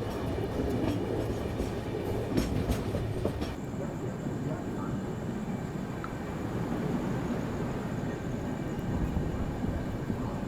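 Passenger train running on the rails, with the wheels clicking over rail joints in the first few seconds, then settling into a steady rumble with a faint high whine.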